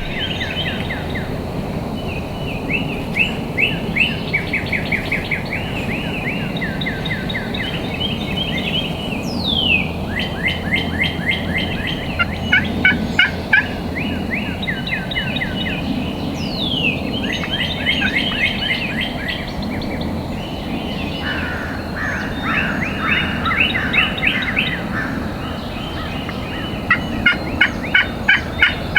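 A chorus of overlapping rapid trilled animal calls, one run after another at several pitches, with two quick falling whistles partway through.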